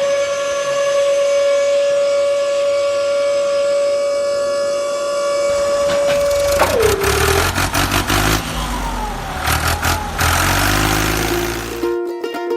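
A steady high whine like a small motor running, which drops in pitch and stops about two-thirds of the way through. A low, uneven engine-like rumble follows until a sudden cut near the end.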